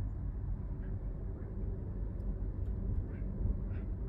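Steady low rumble of a passenger train running along the track, heard from inside the passenger car.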